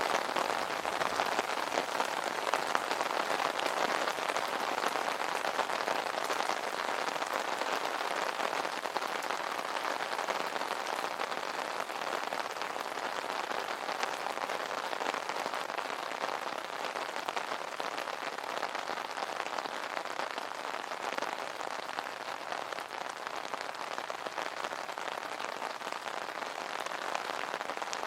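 Steady rain drumming on an umbrella's fabric canopy, a dense, even patter of drops.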